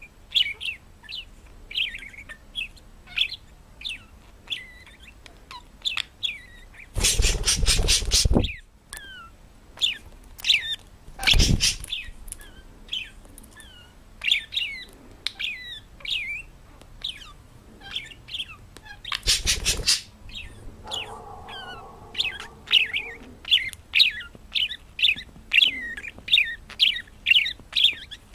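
A parrot chirping over and over in short, quick chirps, several a second. It is broken by three loud, noisy bursts, the first and longest about a quarter of the way in, and by a lower, drawn-out pitched call about three quarters of the way through.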